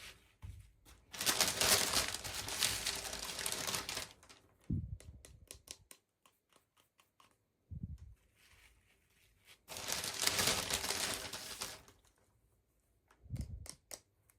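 Packaging of a toy being torn open and crinkled, in two stretches of a few seconds each, with scattered small clicks and taps between them.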